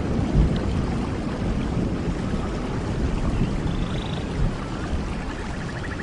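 Steady rain with a low rumble under it, and a few faint high trills in the middle and near the end.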